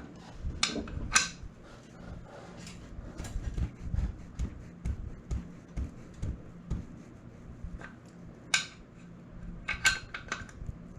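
Scattered metallic clinks and light knocks of tools and parts being handled during a motorcycle oil change, with a faint steady low hum underneath.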